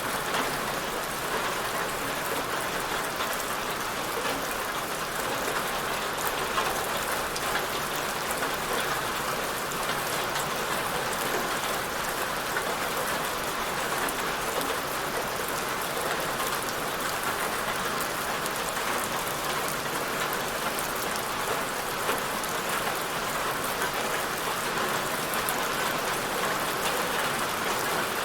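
Steady rainfall: a dense, even hiss of rain on a surface, with scattered individual drops ticking.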